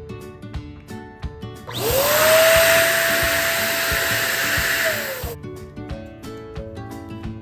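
Small electric balloon pump starting up with a quickly rising whine, running steadily for about three and a half seconds while inflating a balloon, then winding down and stopping. Background music plays throughout.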